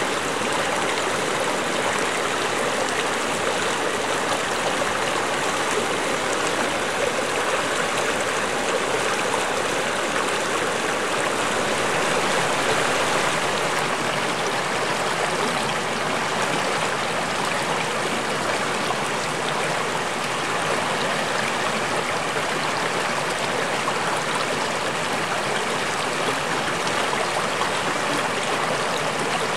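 A stream of running water flowing and splashing over rocks, a steady full rush.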